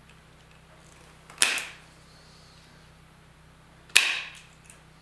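Tin snips cutting through thin strip steel: two sharp snaps with a short metallic ring, about two and a half seconds apart, as small tabs are cut off.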